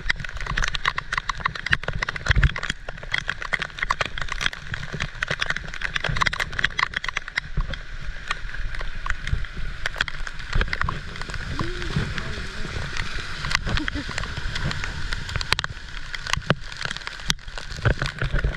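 Heavy rain pouring down: a dense, continuous patter of raindrops striking nearby surfaces.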